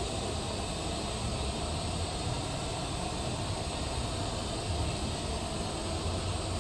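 Steady rushing background noise with a low rumble underneath and no distinct events.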